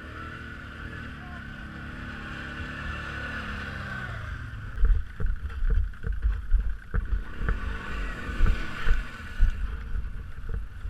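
BRP off-road vehicle engine revving under throttle, its pitch rising and falling. From about five seconds in, loud low thumps and buffeting on the microphone sit over the engine.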